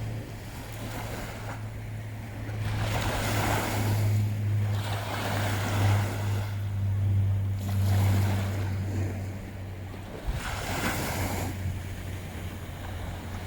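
Surf washing on a beach, the hiss of the waves swelling and fading every couple of seconds, with wind buffeting the microphone and a steady low drone underneath.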